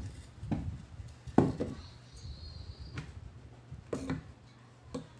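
A series of short knocks and clatters from tools and small metal parts being handled, the loudest about a second and a half in, over a faint steady hum.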